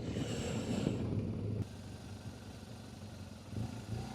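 Motorcycle engine running steadily at low speed, with a hiss over it that cuts off abruptly about a second and a half in, leaving a quieter engine hum.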